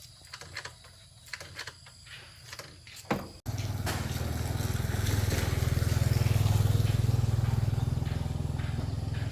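Faint scattered clicks and taps, then a sudden cut to a small motorbike engine running steadily, swelling a little in the middle.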